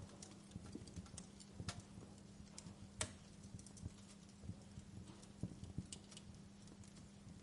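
Wood fire in a fireplace crackling: faint, irregular pops and snaps, one sharper pop about three seconds in, over a low rumble and a steady faint hum.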